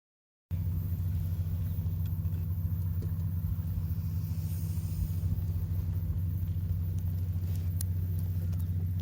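Steady low engine rumble, as of a car running, starting abruptly after a silent cut, with a few faint ticks.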